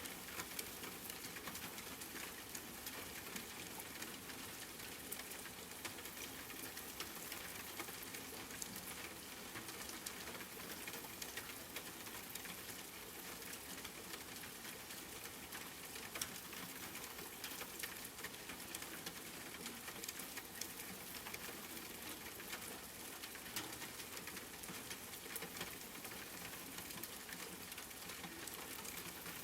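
Steady rain falling and pattering on a surface, an even hiss dotted with fine drop ticks.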